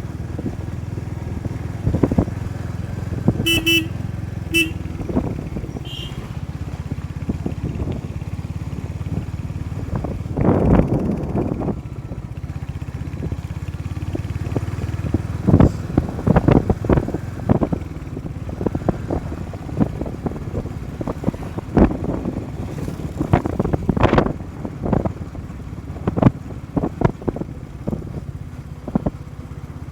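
Motorcycle engine running steadily while riding in traffic, with a vehicle horn honking twice a few seconds in and once more shortly after. Many sharp loud thumps or knocks come and go through the second half.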